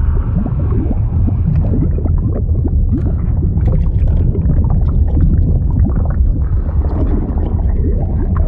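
Liquid sound effect: a steady, deep bubbling and gurgling, heavy in the bass, with many short rising bubble blips.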